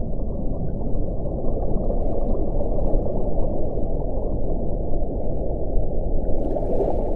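Wind blowing in a steady, low rushing noise with no clear howling tone.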